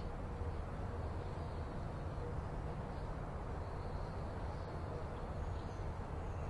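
Steady outdoor background noise with a low rumble, like wind or distant traffic. A few faint high chirps, likely small birds, sound now and then.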